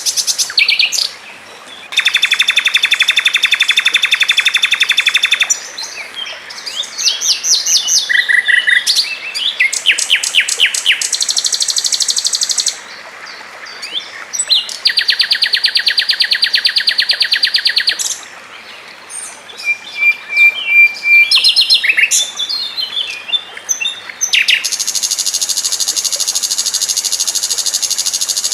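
Songbirds singing in quick succession: long runs of very fast, rapid-fire trills alternating with choppy, varied chattering phrases, each separated by brief pauses.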